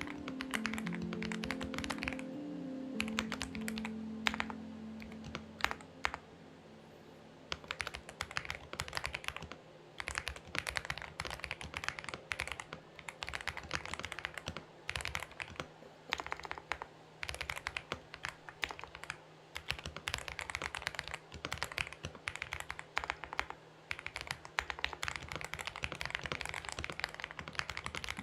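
Fast typing on a Xinmeng X98 mechanical keyboard: dense runs of keystroke clicks with short pauses between them. A soft melody plays under the first few seconds and then fades out.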